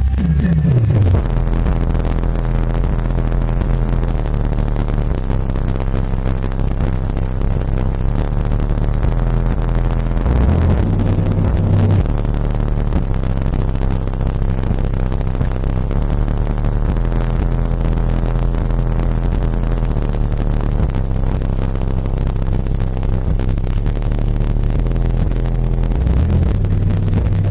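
JL Audio 12W7 subwoofer in a 3 cu ft sealed enclosure, driven by a JL Audio 1000/1 amplifier, playing the deep bass line of a hip-hop track at high volume. The recording is dominated by loud, steady low bass, with a few falling bass notes near the start.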